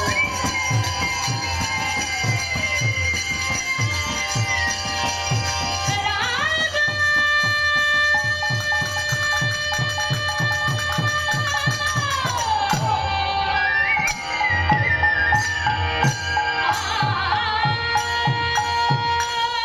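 Bengali devotional kirtan music: a voice holding long notes that slide slowly up and down, over a steady, even beat of drum strokes and jingling percussion.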